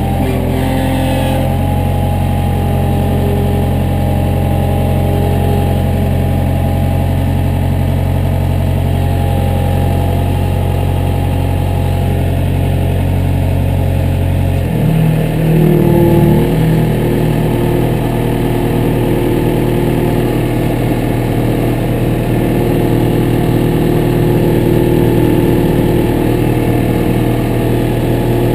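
Heavy equipment diesel engine running steadily; about fifteen seconds in its note changes as the engine speed shifts, with a brief rev.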